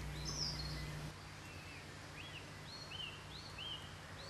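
A bird chirping: short arched notes repeating about two to three times a second, alternating higher and lower, over a faint outdoor hiss. A low hum cuts out about a second in.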